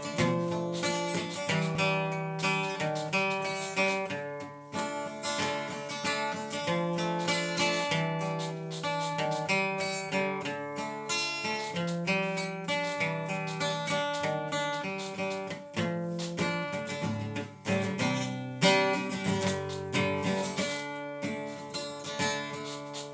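Acoustic guitar playing a continuous run of picked notes with some strumming over held low bass notes.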